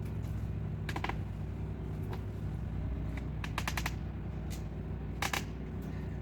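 Mini truck engine idling steadily, with scattered sharp clicks and rattles over it, including a quick run of about four clicks near the middle.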